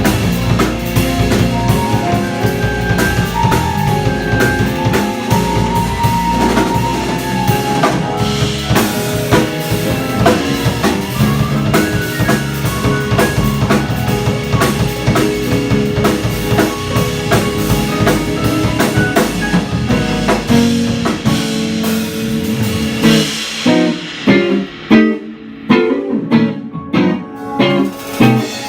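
Live jazz band playing: guitar, piano, bass and drum kit. Near the end the cymbals drop out and the band plays short, stabbed chords with gaps between them.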